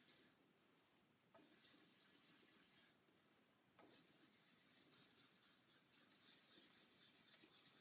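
Faint hiss of fine-grit wet sandpaper rubbed back and forth over a water-based lacquer guitar finish, in quick strokes that pause twice for about a second.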